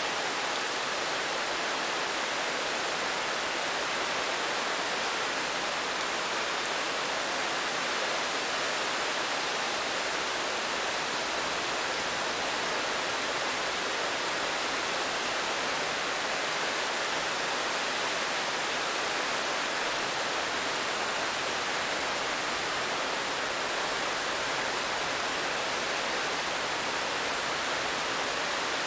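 Steady rain falling, an even hiss with no single drops or changes standing out.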